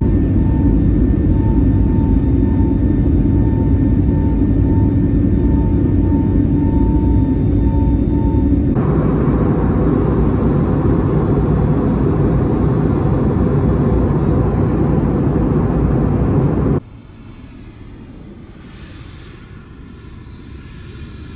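Loud, steady engine rumble with a faint pulsing high tone. It changes abruptly about nine seconds in and drops to a quieter rushing sound about seventeen seconds in.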